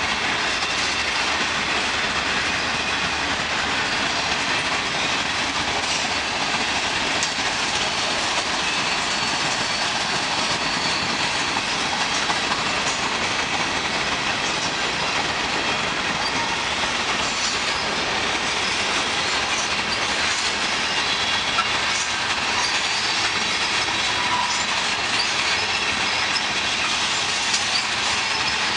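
Cars of a long freight train rolling past at steady speed: a continuous rumble of wheels on rail.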